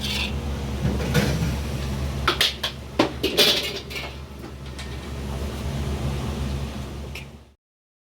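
Dishes and tableware clinking and knocking over a steady low hum of the room, a quick run of clatters in the middle; the sound cuts off suddenly near the end.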